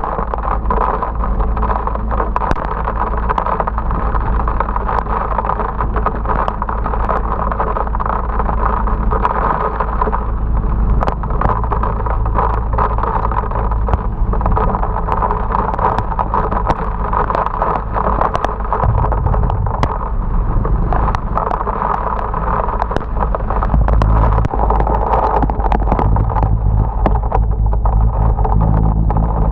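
Motorbike riding through heavy rain: a steady rumble of wind and engine with a hiss of rain and many short, sharp ticks. The sound grows a little louder about 24 seconds in.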